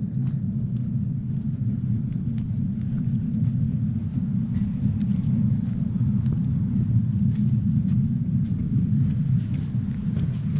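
Miniature railway train running along 7 1/4 inch gauge track: a steady low rumble with scattered faint clicks.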